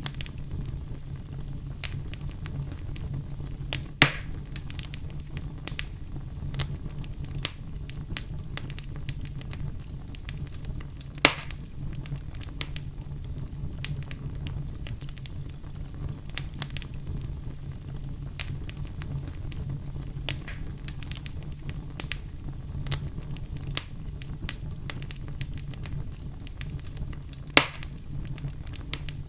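Wood fire burning in a fireplace: a steady low rumble of flames with frequent small crackles and three louder pops of burning wood, about four seconds in, about eleven seconds in and near the end.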